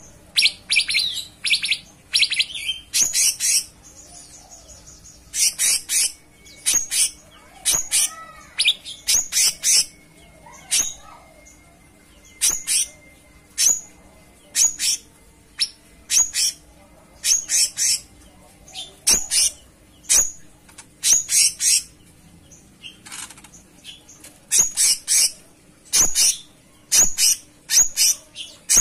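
Cucak cungkok songbird singing in its full 'gacor' mode: loud, sharp, high chirps and short trilled phrases, repeated in quick clusters every second or so.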